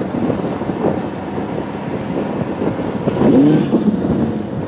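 A car engine revs up and drops back once, about three seconds in, over a steady low rumble of outdoor noise.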